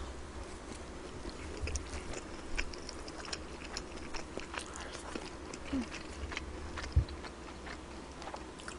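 A person chewing food, with soft wet mouth sounds and scattered small clicks, and a single dull thump about seven seconds in.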